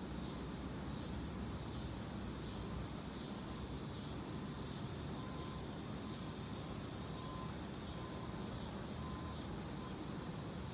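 Steady outdoor background noise: a low rumble with a steady high-pitched hum over it.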